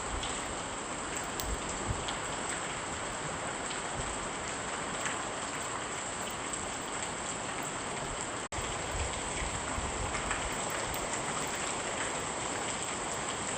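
Steady rain falling on a surface, a dense even hiss with scattered drop ticks. The sound cuts out for an instant about eight and a half seconds in.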